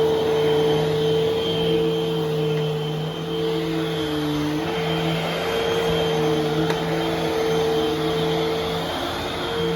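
Eureka vacuum cleaner running, a steady motor hum and whine with airflow rush, its pitch wavering slightly from moment to moment.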